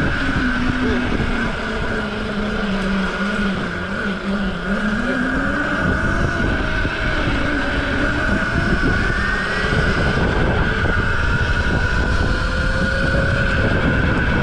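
Small single-cylinder mini bike engine running under a rider, its pitch dropping as the throttle eases off a couple of seconds in, then climbing back up and holding steady.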